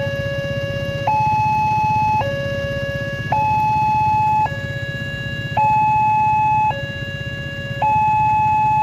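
Railway level-crossing warning alarm sounding, a two-tone signal alternating steadily between a low and a high tone about once a second. Underneath runs a low steady hum.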